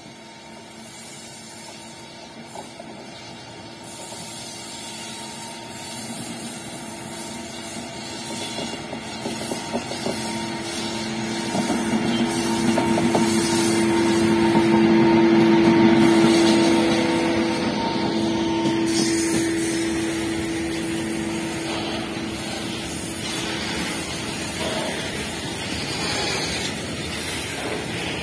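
Indian Railways electric locomotive approaching and passing close by, a steady hum with a couple of held tones that grows loud about halfway through. It is followed by the rumble and clatter of a long string of tank wagons rolling past.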